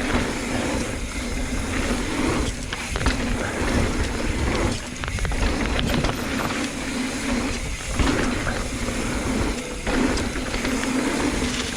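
Mountain bike descending a dirt bike-park trail at speed: tyres rolling over dirt and rock and the bike rattling, as a continuous noise with a heavy low rumble. The noise dips briefly four times.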